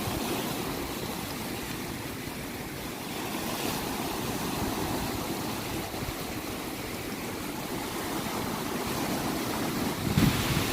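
Sea surf: a steady rush of waves that grows louder near the end.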